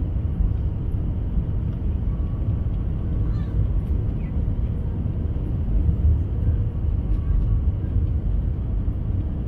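Cabin noise inside an Airbus A320: a steady low rumble of the engines and airflow.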